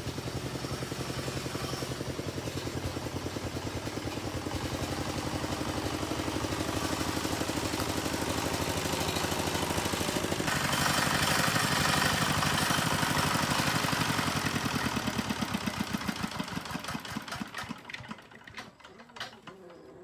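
Engine running with a steady rapid pulsing beat, growing louder about halfway through, then fading away over the last few seconds.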